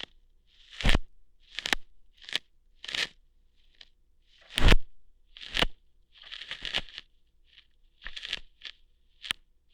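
Ear hair being plucked out close to the microphone: a quick, irregular run of about a dozen short crunchy, tearing pulls, two of them louder with a low thump, one near the start and one midway.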